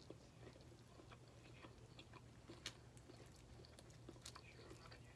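Faint eating sounds: mouth chewing and scattered small clicks and crackles as a cooked shell-on shrimp is peeled by hand, over a low steady hum.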